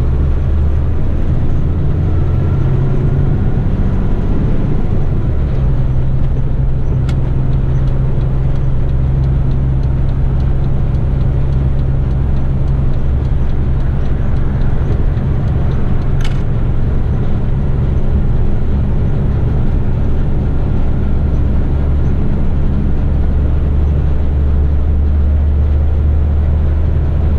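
Heavy rigid truck's diesel engine running steadily with road noise, heard from inside the cab while driving, with two faint ticks along the way.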